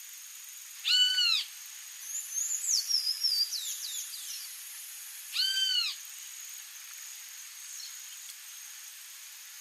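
Wild birdsong: a short, clear arched call sounds twice, about four and a half seconds apart, with a quick warbling run of gliding high notes from another bird between them.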